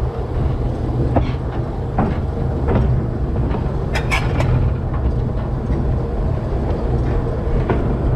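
Train rolling slowly along the rails, heard from the front of the locomotive: a steady low rumble with a few sharp clicks from the wheels and track, a cluster of them about four seconds in.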